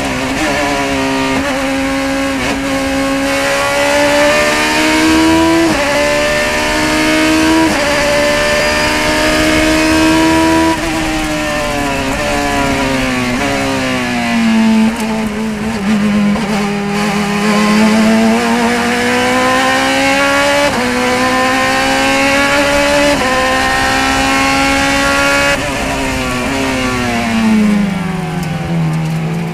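Race car engine at high revs, climbing in pitch and dropping sharply at each quick upshift every couple of seconds, then winding down through downshifts for corners twice before pulling hard again.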